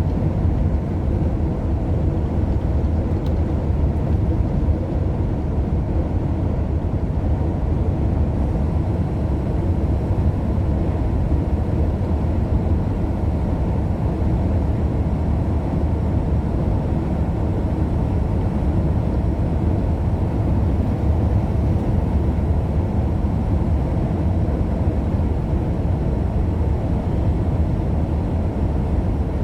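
Steady engine and road noise heard from inside a moving vehicle: a low, even rumble that does not change.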